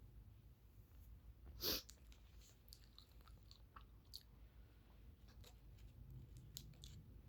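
A person eating close to the microphone: one loud crunchy bite about one and a half seconds in, then quiet chewing with small scattered mouth clicks.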